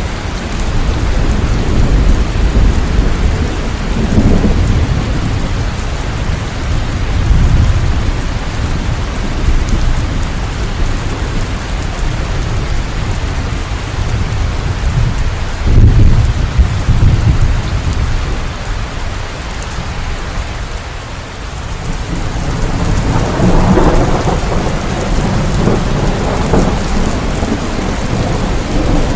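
Steady heavy rain with low rolls of thunder that swell and fade several times, the loudest about halfway through and another long one near the end.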